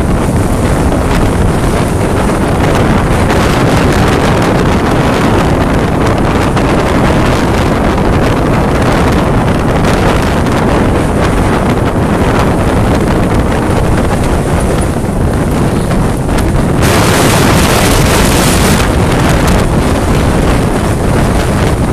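Strong wind buffeting the microphone over rough sea and surf, with a louder hissing rush about seventeen seconds in that lasts about two seconds.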